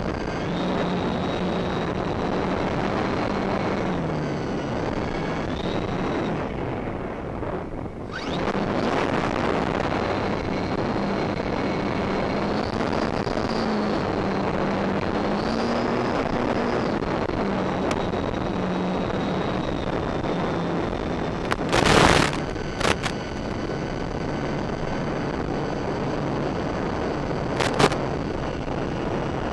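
Electric motors and propellers of an RC VTOL model plane whining under heavy wind noise on the microphone; the motor pitch rises and falls as the throttle changes. A few brief loud bursts of noise come through, twice close together about two thirds of the way in and once near the end.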